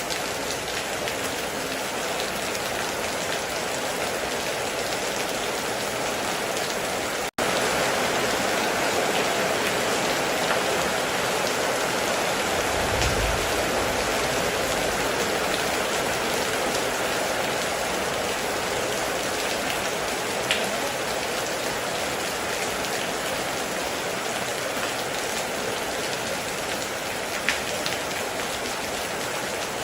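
Heavy, steady rain with dense drop noise and a few single sharper drips. The sound cuts out for an instant about a quarter of the way in, then resumes slightly louder. A brief low rumble comes near the middle.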